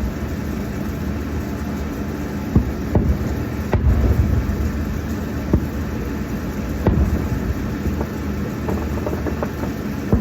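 Distant fireworks going off now and then, as single sharp pops, over a steady low rumble.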